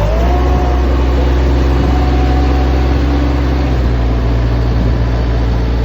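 Tractor engine running steadily with a deep, even hum; a fainter whine rises in pitch right at the start and then holds.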